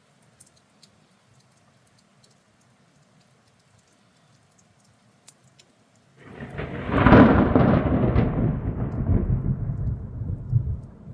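A thunderclap: after about six seconds of faint raindrop ticks, thunder breaks suddenly with a loud crack and a deep rumble that rolls on and fades over about four seconds.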